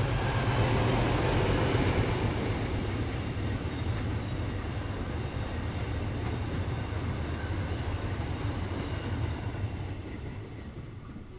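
Loaded freight train rolling past, its wheels clicking over the rail joints in a steady rhythm of about three beats a second over a low rumble. The sound fades away near the end as the train goes by.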